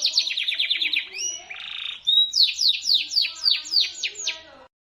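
Domestic canary singing shrilly: a fast run of falling notes at about ten a second, broken by a rising whistle and a short buzzy rattle, then slower falling notes at about four a second. The song cuts off abruptly near the end.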